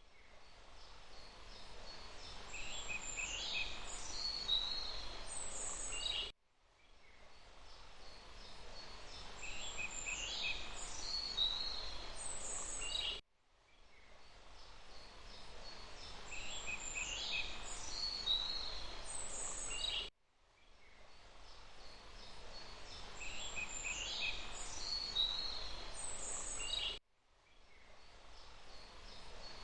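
Birds chirping and whistling over a steady rushing hiss. It is a short recording looped about every seven seconds: each repeat cuts off suddenly to near silence, fades back in, and the same calls come again.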